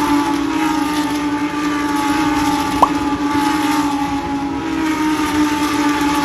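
Lamborghini Huracán Super Trofeo race cars' V10 engines running on track, a loud steady drone whose pitch sinks slowly. A brief rising chirp about three seconds in.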